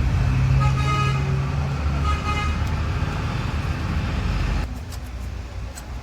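Road traffic running past with a vehicle horn sounding twice, about a second apart; the traffic rumble drops away near the end.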